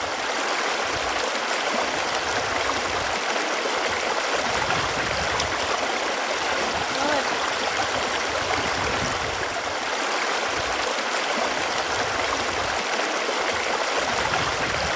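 Running water flowing steadily: an even, unbroken rush and burble.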